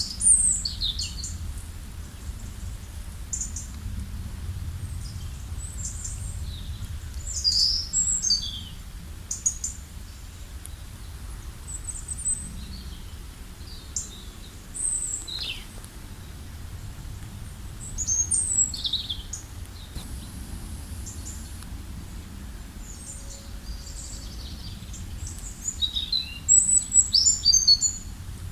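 Several small songbirds chirping and singing in short, quick high notes, with a dense flurry of calls near the end, over a steady low rumble of background noise.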